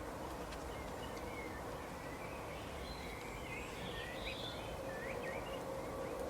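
Small birds chirping in quick, short calls over a steady low rumble and a faint hum.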